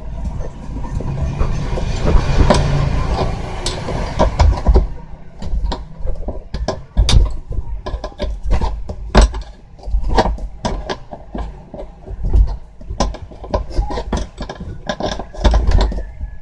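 Metal-on-metal scraping and clinking of a spanner tightening the belt pulley onto a washing machine motor's shaft: a dense run of rattling for the first few seconds, then a string of irregular sharp knocks.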